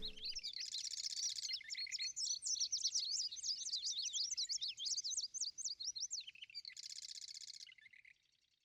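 Songbird singing: a fast run of high chirps and twittering sweeps for about six seconds, with a short buzzy trill about a second in and another near the end.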